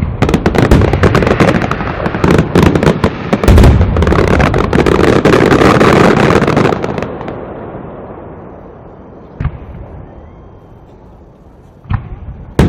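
Aerial fireworks display: a dense, rapid string of bangs and crackling for about seven seconds that then dies away, followed by a few separate bangs near the end.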